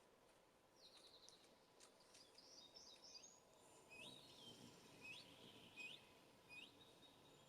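Small songbirds calling faintly: a short high trill about a second in, a jumble of quick chirps, then a series of short rising call notes about one a second.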